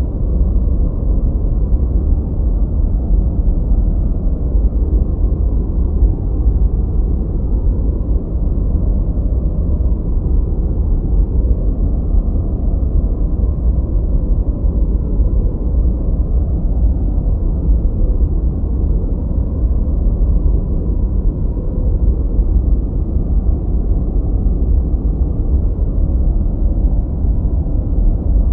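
Continuous synthetic noise track, steady and unchanging, deep and muffled: most of its energy is in the bass, with little above the midrange.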